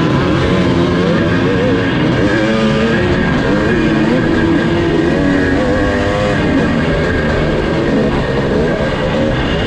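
1982 Husqvarna 430's two-stroke single-cylinder engine being ridden hard on a motocross track, its revs rising and falling continuously.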